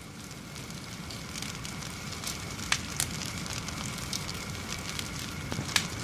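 Fire burning and crackling: a steady rushing noise that fades in, with sharp pops here and there.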